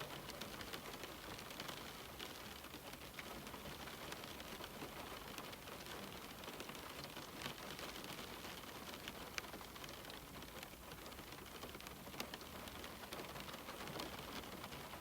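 Steady rain pattering on a window pane, a dense even hiss of drops with a few louder single drops ticking through it.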